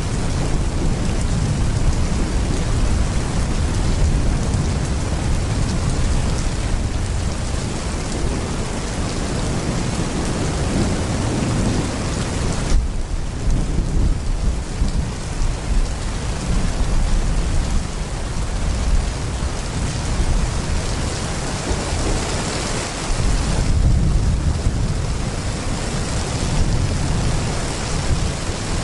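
Heavy rain pouring steadily, with a deep thunder rumble rolling underneath. The sound shifts abruptly about thirteen seconds in.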